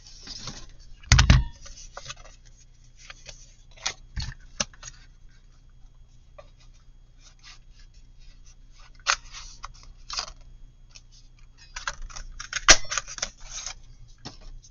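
Paper and craft tools handled on a work table: scattered taps, clicks and paper rustling, with a louder knock about a second in and a busier patch of rustling and clicks near the end.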